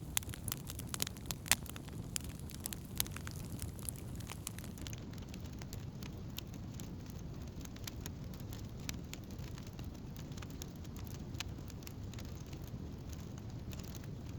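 Wood campfire burning: sharp crackles and pops, thick for the first few seconds and then sparser, over a steady low rush.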